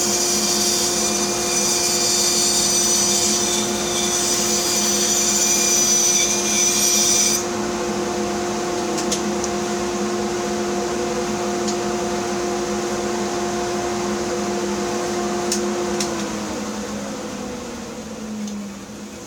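Bandsaw with the blade cutting through a wood block: a hissing sawing noise over the motor's steady hum for about the first seven seconds. The saw then runs free, and about sixteen seconds in it is switched off, its hum falling in pitch as it winds down.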